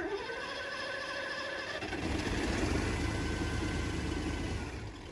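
Old Mercedes-Benz truck's diesel engine being started: a steady whine for about two seconds, then the engine catches and runs with a low rumble.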